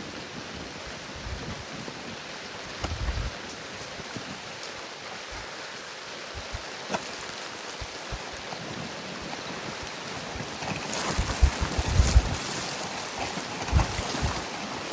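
Steady rain with gusting wind. The wind buffets harder in low rumbling gusts about three seconds in and again near the end, and a few single sharp drip-like taps sound through the hiss.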